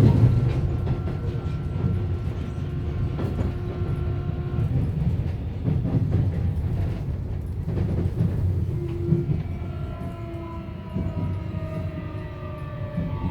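Subway train running, heard from inside the car: a low rumble with rail clatter and a steady motor whine that cuts out about five seconds in. From about nine seconds a whine falls slowly in pitch as the train slows for the announced stop.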